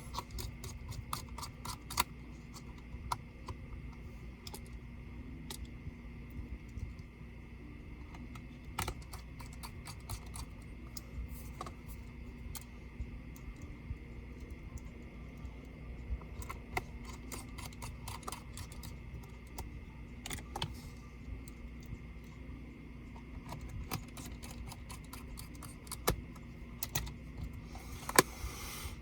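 Scattered light clicks and taps of a Dell Vostro 13 5310 laptop's parts being handled, at an irregular pace, with a few sharper clicks near the end, over a faint steady hum.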